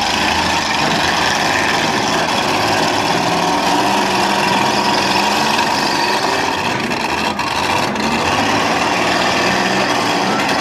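Several demolition derby car engines running at once, loud and steady, their pitches wavering up and down.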